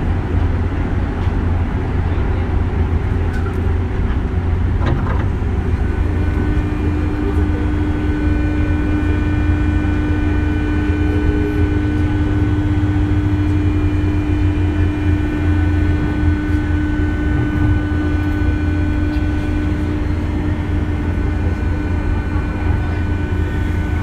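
JR 201 series electric commuter train running on the line: a steady rumble of wheels on rail, joined about six seconds in by a steady hum with overtones that holds on.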